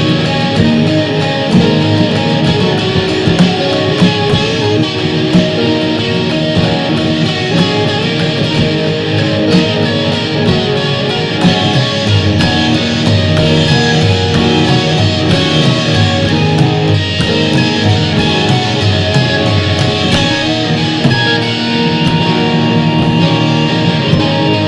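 Improvised band jam on electric guitar, synthesizer and drums: a loud, dense wash of held, overlapping tones with quick drum and cymbal hits running through it.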